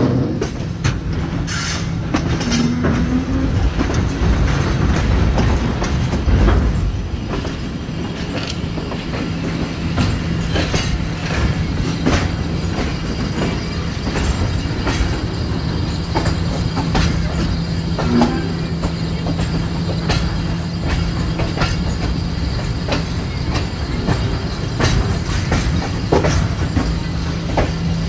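Pakistan Railways Tezgam Express passenger train running out of a junction, heard from a coach doorway: wheels clacking irregularly over rail joints and points over a steady rumble and a constant low hum. Two brief wheel squeals sound, one a couple of seconds in and one about two-thirds of the way through.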